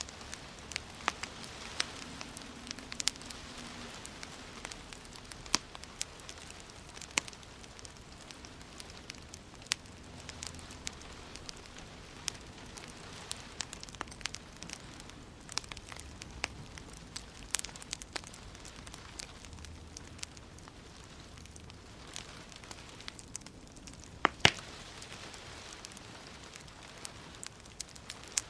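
Fire crackling in a fireplace: irregular sharp pops and snaps over a steady hiss, with a couple of louder pops about 24 seconds in.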